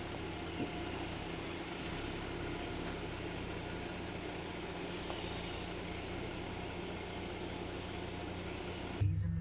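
Heavy rain falling steadily, with a steady low hum beneath it. The rain noise cuts off abruptly near the end, leaving only the low hum.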